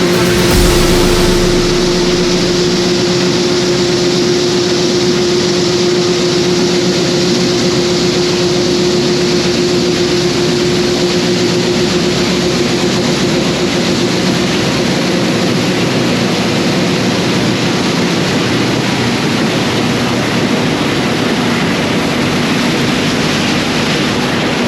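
Heavy diesel engine running steadily with a constant hum.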